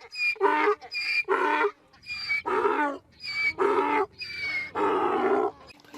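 Donkey braying: a hee-haw of about ten alternating high and low calls, roughly two a second, with the last call drawn out.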